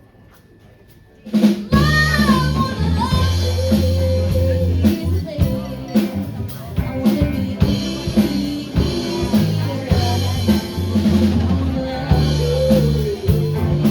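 A live rock band comes in after a brief hush about a second in, playing a full drum kit, bass and a bending lead melody line.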